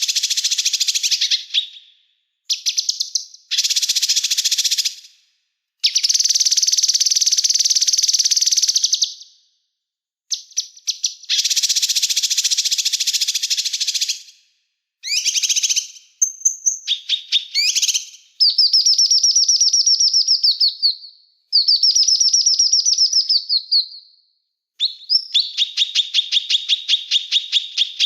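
Small songbirds singing loud, rapid, high-pitched trills in bursts of one to three seconds with short silences between them. In the second half come trilled phrases that fall in pitch at their ends, and near the end a fast run of evenly repeated chirps.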